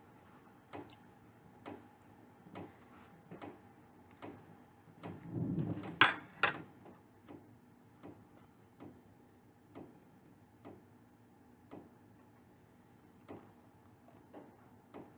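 Close-miked chewing of a bakery pastry, with soft wet mouth clicks at a steady pace of about one a second. About five seconds in comes a louder, longer rustling stretch that ends in two sharp clicks.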